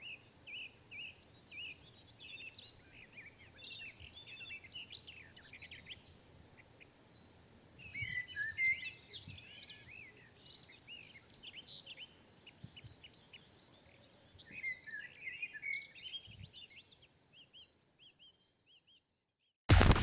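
Several small birds chirping and twittering in a forest, with busier flurries of calls twice, thinning out toward the end. Right at the very end a loud crash with music cuts in.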